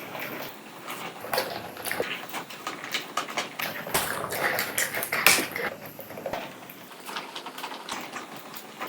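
People eating pizza close to the microphone: chewing and mouth noises with many irregular clicks and crackles, busiest about halfway through.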